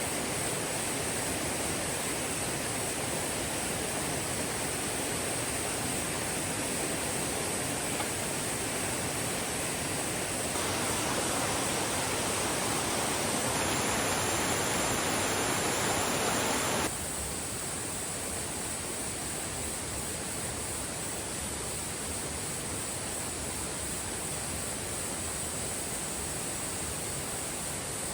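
Mountain stream water rushing steadily over rocks, with a constant high-pitched drone of insects above it. The sound changes abruptly a few times and is loudest in the middle.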